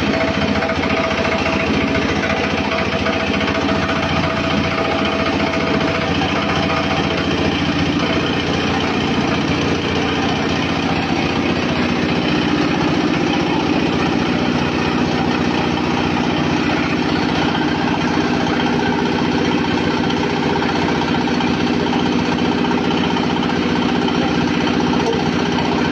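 Pellet mill (a 200 kg/hour pellet-making machine) running steadily with a fast, even mechanical rattle and a low hum.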